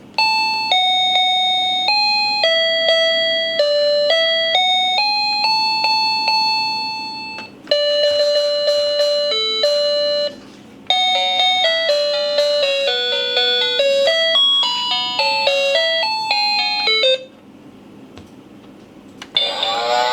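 Children's electronic toy piano playing short melodies in clean, chime-like electronic tones, three tunes with brief pauses between them. Near the end it plays a recorded cow's moo.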